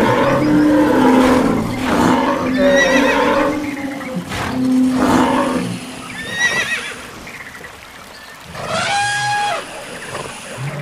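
Horses neighing, with whinnies near 3 s, 6.5 s and 9 s. Lower, longer animal calls fill the first few seconds.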